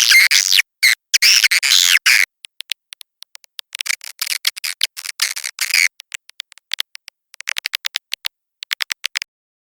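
Playback recording of edible-nest swiftlet calls used as a nest-house lure. It has dense, high chittering for the first couple of seconds, then rapid trains of short clicky chirps that thin out and stop about nine seconds in.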